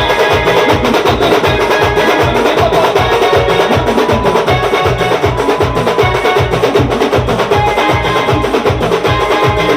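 Band music: a loud, fast, steady drumbeat of about three strikes a second under a held melody.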